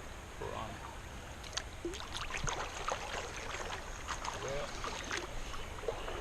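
Shallow creek water running and babbling over rocks, with many small splashes and drips.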